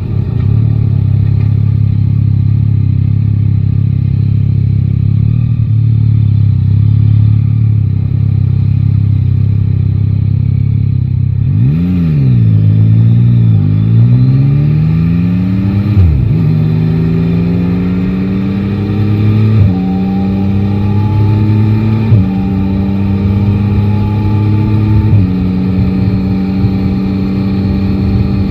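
Yamaha Tracer 9 GT's three-cylinder engine running steadily, then, about 12 seconds in, accelerating hard through the gears. Its pitch climbs and drops back with each upshift, four shifts in all.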